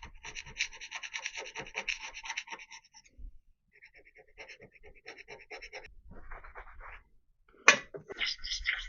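Hand scraper on a machined metal surface, cutting in quick, short, repeated strokes with a rasping scratch, taking down high spots to bring the face flat. The strokes pause briefly about three seconds in, and one sharp, louder stroke comes near the end.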